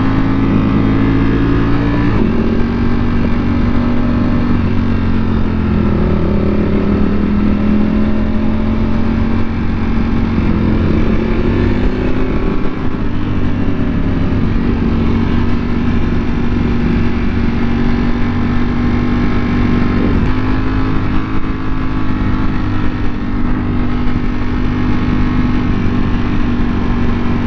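Motorcycle engine running at a steady cruise, its pitch drifting gently up and down, over a constant low rumble of wind and road noise.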